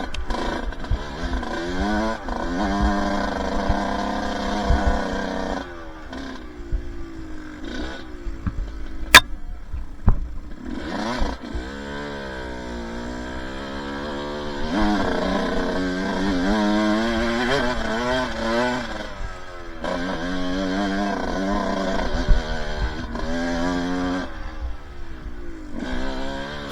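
Two-stroke dirt bike engine under way on a trail, its pitch climbing and dropping over and over as the throttle is opened and closed through the gears. A single sharp knock comes about nine seconds in.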